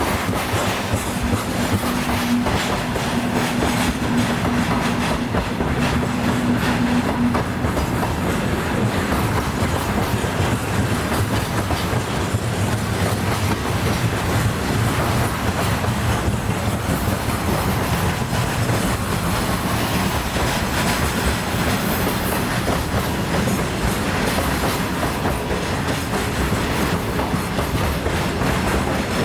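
Freight train wagons rolling past on an upgrade, their wheels clattering rhythmically over the rail joints. A steady tone runs over the clatter for the first several seconds.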